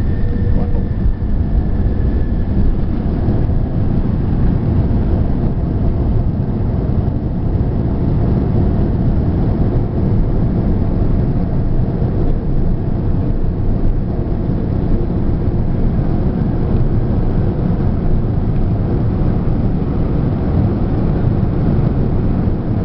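Steady, loud rumble of engines and airflow heard from inside the cabin of an Airbus A380, even throughout with no distinct thumps.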